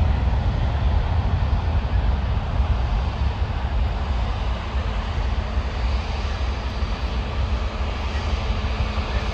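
Jet airliner engines: a steady, deep rumble.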